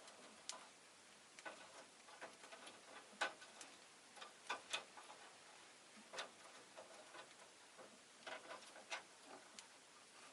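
Rosy-faced lovebird making faint, irregular clicks and taps, with a few soft, short chirps among them.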